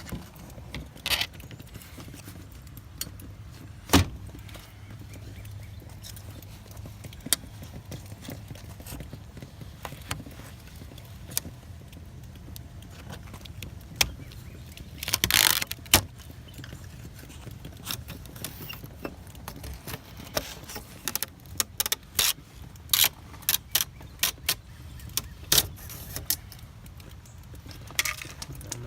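Irregular sharp metallic clicks, knocks and scrapes as trim pieces are pried and pulled out of an old aluminum window frame, with a longer scraping rattle about halfway through, over a steady low hum.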